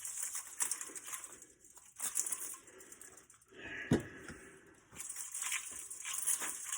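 Thin aluminum fins of an HVAC A-coil crinkling and tearing in irregular bursts as the coil is bent apart, with one sharp knock about four seconds in.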